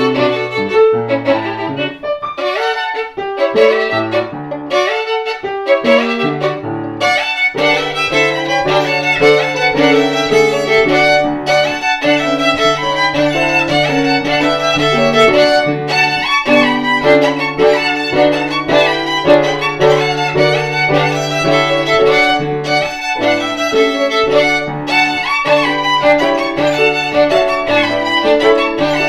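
Violin played with bow, a 1787 Neapolitan instrument by Giovanni Battista Fabricatore, over piano accompaniment. The phrases are broken up for the first several seconds, then become a fuller, continuous passage from about seven seconds in.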